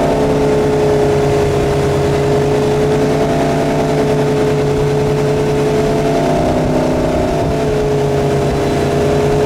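Centurion Fi25 wake boat's inboard engine running at a steady towing speed, its pitch held even throughout.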